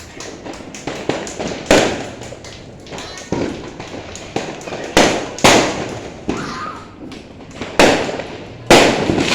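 Fireworks going off: a string of loud bangs every second or two, among smaller pops and crackles.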